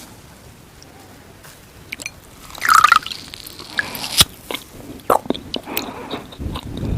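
Wet sponge being bitten and chewed close to the microphone. It is fairly quiet for the first two seconds or so, then comes a loud wet squelch, followed by a sharp click and scattered squishy, crackling bites.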